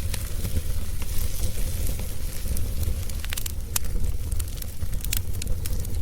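Log fire burning, with frequent irregular sharp crackles over a steady low rumble.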